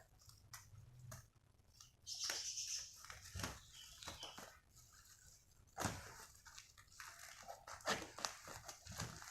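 Cardboard and plastic packaging being torn and crinkled while a boxed wire bird cage is unpacked, in irregular rustling bursts with a few sharp knocks.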